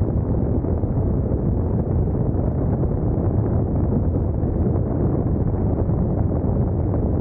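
Steady rush of wind and road noise from a motorcycle riding at speed, a dense low rumble without a clear engine note or any breaks.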